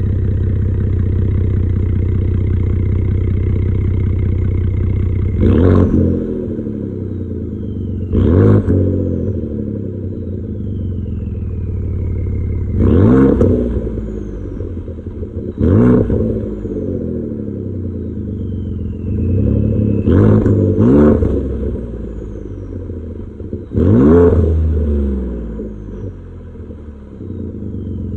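2016 Ford F-150's 3.5 EcoBoost twin-turbo V6 idling through a straight-piped exhaust with resonator and muffler deleted, revved in seven short blips. A thin whistle falls away after each blip.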